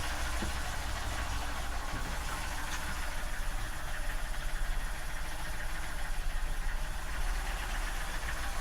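Subaru EK23 two-cylinder 544 cc OHV engine running at idle, with a steady low throb that swells and fades in an even pulse from about three seconds in.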